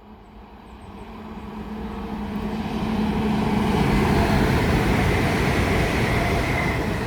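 Avanti West Coast Class 805 Evero train approaching and passing through. The rush of wheels on rail and air builds steadily over a few seconds to a loud, steady noise, with a faint high whine near the end.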